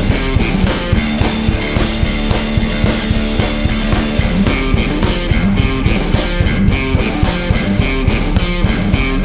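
Live rock duo of electric guitar and drum kit playing a loud instrumental passage, the drums hitting in a fast, even beat under sustained guitar chords.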